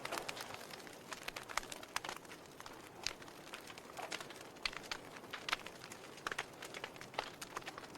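Wood fire burning in a fireplace: logs crackling with frequent irregular sharp pops and snaps over a soft steady hiss.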